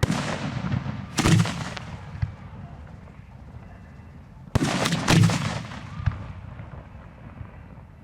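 Aerial fireworks booming close by: two loud bangs about a second apart, then another pair about halfway through, each dying away in a rumbling tail.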